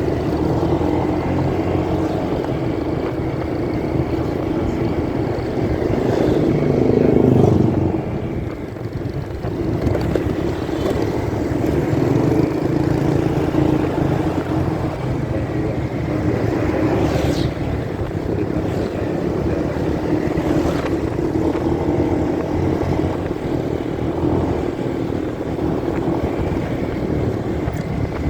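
Motorcycle engine running while riding, with road and wind noise, muffled by the phone recording from inside a pocket. The engine grows louder about six seconds in, then drops off suddenly near eight seconds, as when the throttle is closed or a gear is changed.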